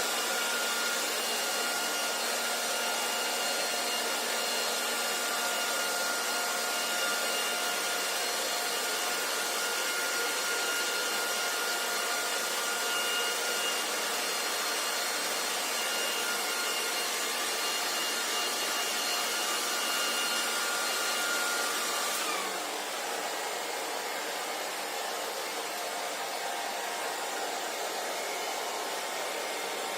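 Hand-held hair dryer running steadily, a rushing blast of air with a thin motor whine on top. About two-thirds of the way through, the whine slides down in pitch and the airflow gets a little quieter.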